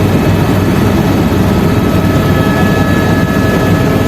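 Helicopter in flight: a loud, steady engine-and-rotor drone, with a few faint steady whining tones above it.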